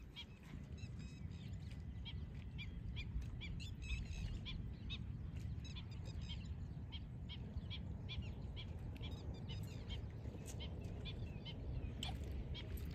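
Small birds chirping in a steady run of short, high calls, over a low steady rumble.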